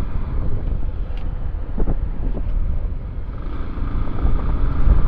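Wind buffeting the microphone of a moving motorcycle rider, a heavy steady rumble over the motorcycle's running engine.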